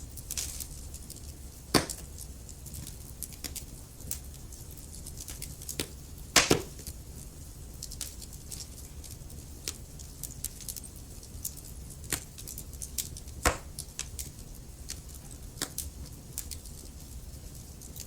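Logs burning in a fireplace: a steady crackle of small snaps, with three louder pops spread through it, over a low, even rumble of the flames.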